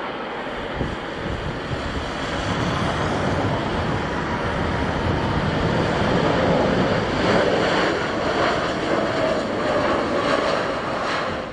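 Jet engines of a Boeing 737-800 on landing, a steady, even noise that grows louder after the first couple of seconds and stays strong through the middle and later part.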